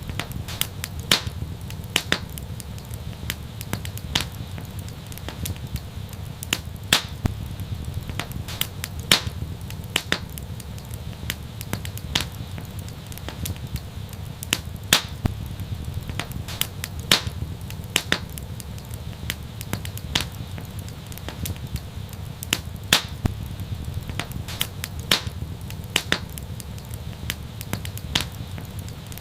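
Wood fire crackling in an outdoor fireplace: sharp, irregular pops and snaps, a few much louder than the rest, over a steady low rumble.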